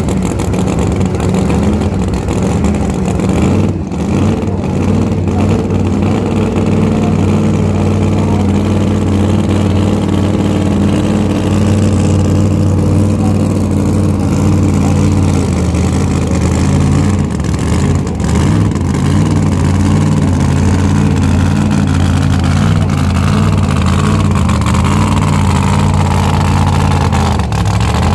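Turbocharged diesel engine of a pulling tractor running hard and steady under load, with a whine rising in pitch over the last few seconds.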